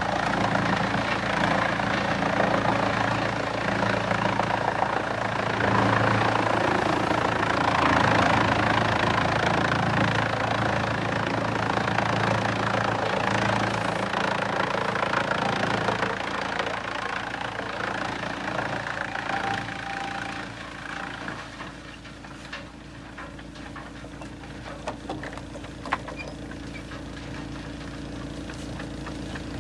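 Engine-driven heavy machinery running steadily, loud with a coarse noisy churn for about the first half, then easing to a quieter run with a few sharp knocks near the end.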